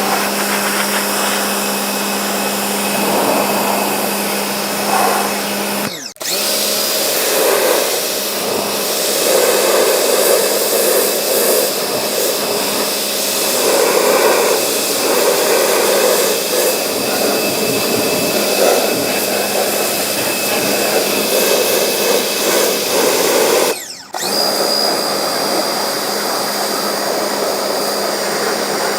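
A small electric motor running steadily at high speed, like a power tool or vacuum. It breaks off briefly twice, about six seconds in and about five seconds before the end, changing tone each time.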